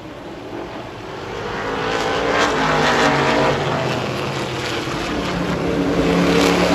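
Several super truck race engines at full throttle, growing louder as the trucks close in and pass, loudest about three seconds in, easing a little, then building again near the end as more trucks come by.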